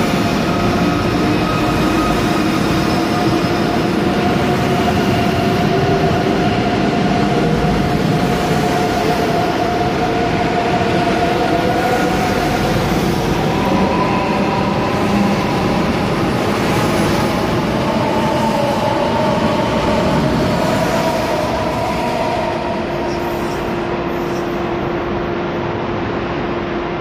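ICE 3 high-speed electric train pulling out along the platform. Its traction equipment whines in several tones that rise in pitch as it gathers speed, over the rumble of the wheels on the rails, echoing in the enclosed station hall. The sound eases off a little near the end as the last car clears the platform.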